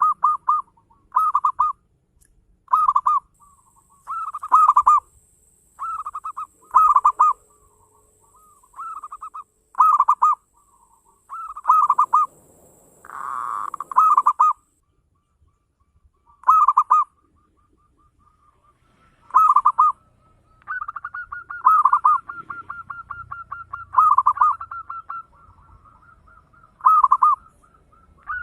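Zebra doves cooing: short, bubbling coo phrases repeated every second or two, with a quicker run of rapid notes near the end.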